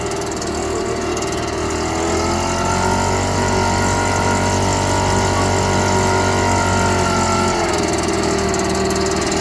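British Seagull two-stroke outboard motor running just after starting. Its speed rises about two seconds in, holds steady, then drops back toward idle near the end.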